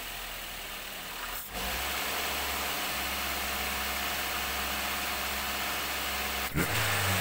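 Daihatsu Gran Max's fuel-injected engine running steadily with the throttle body open. After a brief break about a second and a half in, it runs louder.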